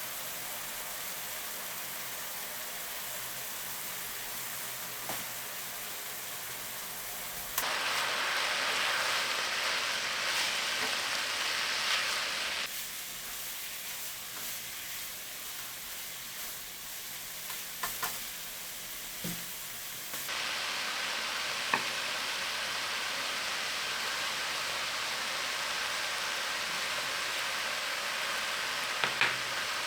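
Food sizzling as it fries in oil in a pan, a steady hiss that jumps louder about 7.5 seconds in, drops back at about 13 seconds and rises again at about 20 seconds. A few light clicks sound over the sizzle.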